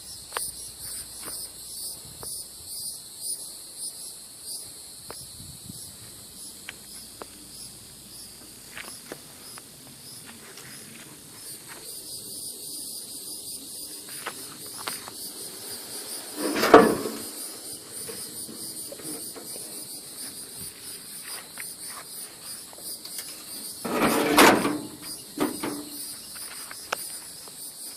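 A steady insect chorus chirping in pulses throughout, with scattered small clicks and two loud sudden knocks, one a little past the middle and a longer one near the end.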